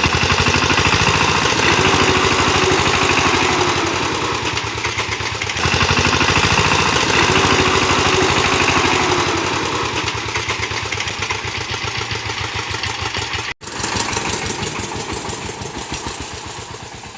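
Power tiller's engine running with a rapid, even firing beat, its note shifting a few times. It breaks off for an instant about two-thirds of the way through, then trails off near the end.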